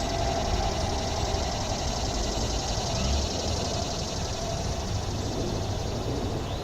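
Steady city park ambience: a low rumble of passing traffic under a fast, even, high-pitched pulsing that runs throughout.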